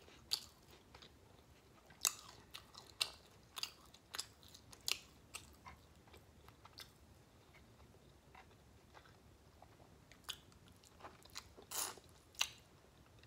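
Close-miked chewing of food, with irregular sharp mouth clicks; near the end she bites into a steamed shrimp.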